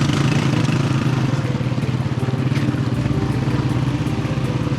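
Honda 125 single-cylinder motorcycle engine running steadily while being ridden.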